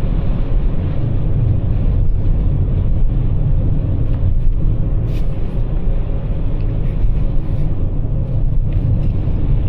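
Steady low rumble of tyre and road noise inside the cabin of a Toyota RAV4 Prime on Blizzak snow tires, cruising on the highway.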